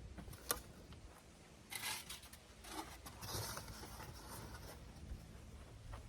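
A sharp click, then a few short scraping, rustling handling noises over a faint low hum.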